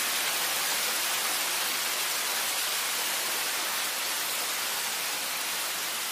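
Steady rain, an even hiss, slowly getting quieter.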